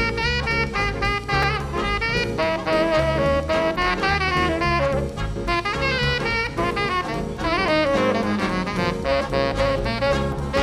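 Jazz band playing: a wind instrument carries a melody with bent notes over a walking bass and drums.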